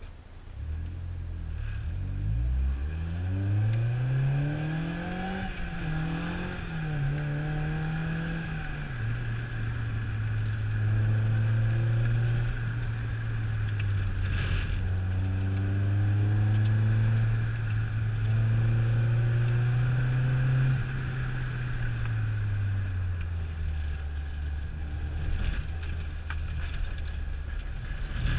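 A motor vehicle's engine revs up over the first few seconds, then runs at a steady speed under load. About two-thirds of the way through it eases off to a lower pitch. A single sharp knock comes about halfway.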